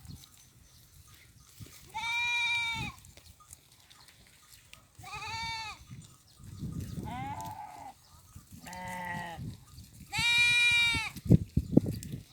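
Goats bleating: five separate calls a second or two apart, the loudest near the end, followed by a few sharp clicks.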